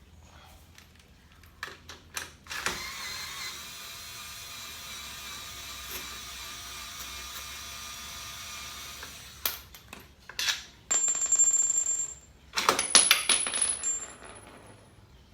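Stainless-steel scouring pads being pushed into a motorcycle racing muffler: metal scraping and clinking, with a long steady scrape in the middle. Near the end come sharp metallic clinks and brief high squeals.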